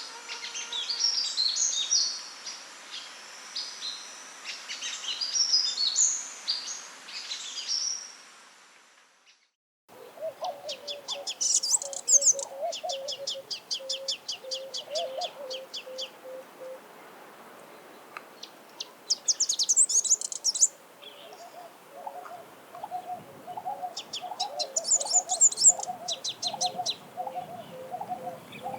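Sunbird song: a rapid, high twittering of chirps, then after a brief silent break a second stretch of fast high trills in bursts, three times. Under the trills runs a lower note repeated about twice a second from another bird.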